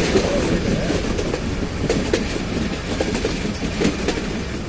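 Nilgiri Mountain Railway train running along the track: a steady rumble with the wheels clicking and clacking over the rail joints.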